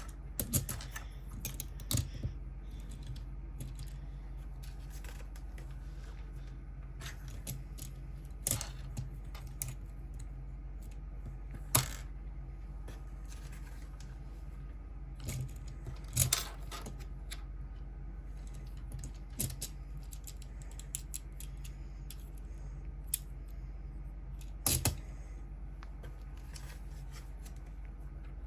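Plastic Lego pieces clicking and clattering as they are handled and pressed together: irregular sharp clicks, a few louder than the rest, over a steady low hum.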